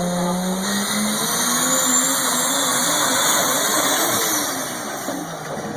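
Pulling tractor's engine running at high revs, loud, its pitch rising a little and then wavering.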